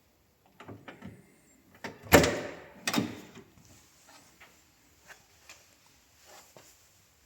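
Car door being worked and shut: a few light latch clicks, then two heavy thumps about a second apart, the first the loudest, followed by faint clicks.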